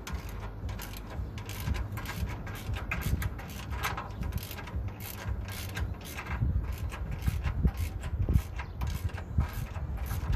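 Socket ratchet clicking in quick, irregular runs as bolts are worked loose.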